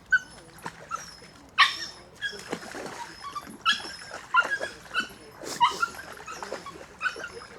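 A dog whimpering and giving short yips, several times over, as it stands eager but hesitant to go into the water.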